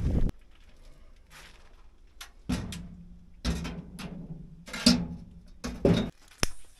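A wood stove being handled: about six separate metal clanks and knocks a second or so apart, some leaving a short low ring.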